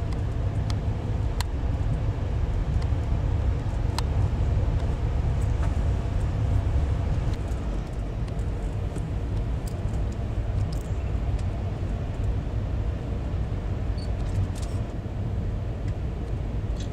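Steady low rumble of a passenger train in motion, with a few faint clicks and rattles over it.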